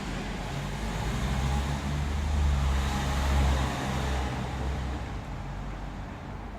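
A motor vehicle passing: a low engine hum and road noise build to a peak a little past the middle, then fade away.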